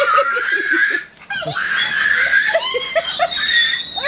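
People laughing excitedly in runs of short bursts, with high-pitched squeals over them.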